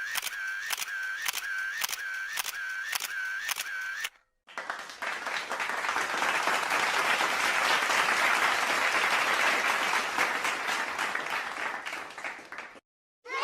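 Camera shutter clicking about twice a second for four seconds, then, after a short break, a round of applause that swells and fades out near the end.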